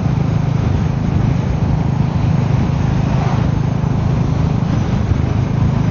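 Royal Enfield Meteor 350's single-cylinder engine running steadily while the motorcycle cruises, with wind and road noise over the microphone.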